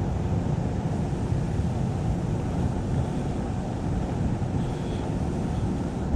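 Wind rushing over the microphone in a steady low rumble while riding a Onewheel electric board.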